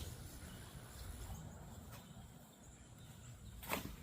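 Faint outdoor garden ambience with a thin steady high hum in the background, broken near the end by one short, sharp noise.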